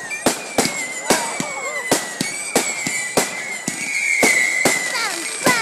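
Fireworks going off: a rapid run of sharp bangs, two or three a second, over high whistling fireworks, with several whistles falling in pitch near the end.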